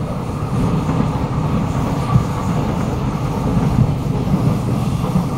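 Interior running noise of a Kawasaki Nippon Sharyo C751B metro train car at speed: a steady low rumble of wheels on rail with strong car-body vibration. A brief louder knock comes about two seconds in.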